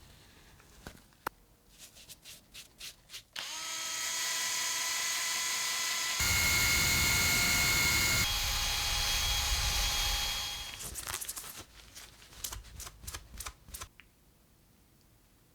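Small hand-held electric power tool, drill-like, running steadily for about seven seconds. It has a louder, harsher stretch in the middle where its pitch shifts, as if it is bearing on the work. Clicks and taps of handling come before and after.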